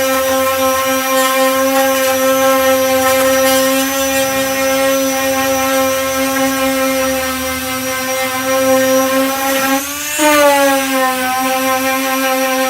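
Power sander with a 240-grit disc sanding down body filler, running with a steady whine. About ten seconds in its pitch briefly rises, then falls back.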